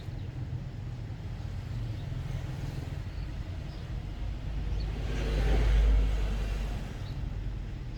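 Low steady rumble of road traffic, with one vehicle passing that swells loudest about six seconds in and then fades.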